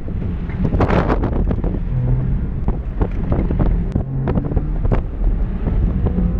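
Porsche Boxster RS 60 Spyder's flat-six engine being driven hard, its revs rising and falling as the car is pulled through tight turns. Heavy wind buffeting on the microphone in the open cockpit, with many short sharp knocks throughout.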